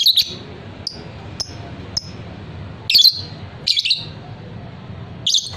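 Lovebird calling in short, sharp, high-pitched chirps. There are loud bursts at the start, around three and four seconds in, and near the end, with a few softer single chirps between.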